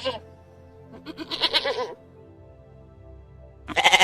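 Goat bleating in short, wavering, quavering calls: one ending just after the start, a full bleat about a second in, and another beginning near the end, over soft steady background music.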